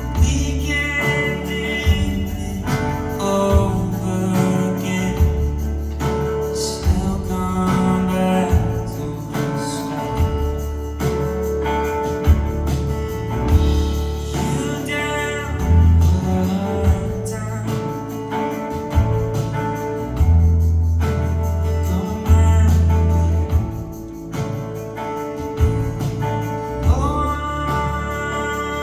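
Live indie-folk band playing a song: singing over guitar, bass and drums.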